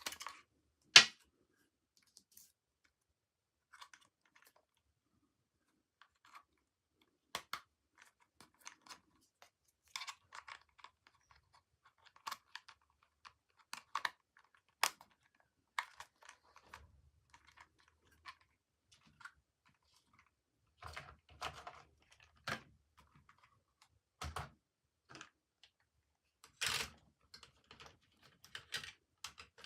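Toy packaging being handled and opened: scattered short crinkles, clicks and taps of plastic and cardboard, with quiet gaps between them.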